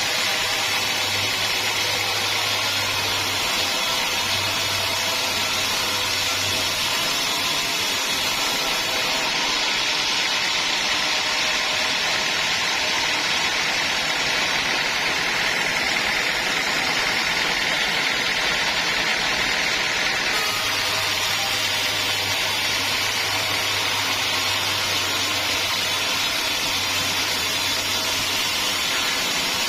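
Band sawmill running steadily as it saws a teak log, a continuous mechanical noise whose high edge shifts about 9 and 20 seconds in.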